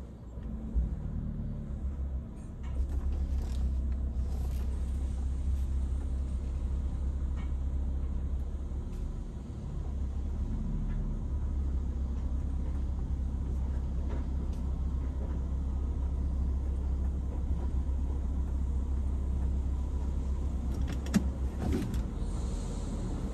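Steady low rumble of an idling car heard from inside its cabin, briefly easing twice, with a couple of sharp clicks near the end.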